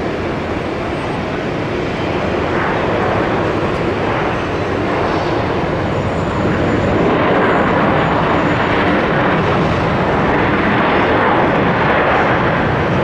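Jet engines of a FedEx Airbus A300 freighter on its landing, a loud steady rushing noise with a deep rumble underneath that grows louder about six seconds in.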